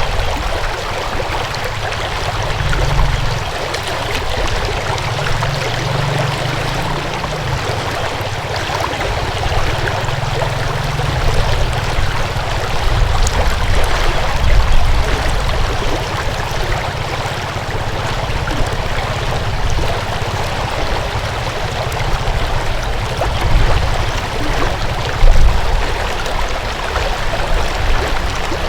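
Water flowing in a stream, a continuous steady rush and splash, with a low rumble underneath and a couple of brief louder swells.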